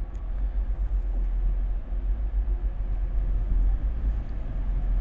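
A pair of Class 185 diesel multiple units running into the platform, a steady low rumble.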